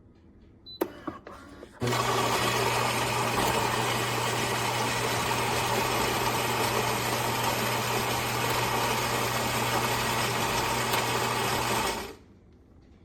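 Philips 3200 Series automatic espresso machine running: a few clicks, then a loud, steady mechanical whirr with a constant low hum for about ten seconds, stopping abruptly near the end.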